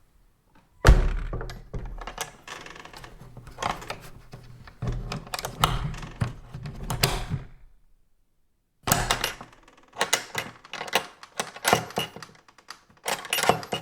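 Old wooden farm door being worked, with a loud thump about a second in followed by a run of creaks, rattles and knocks. After a short silence a second run of sharp clicks and knocks follows: the latch being handled and shut.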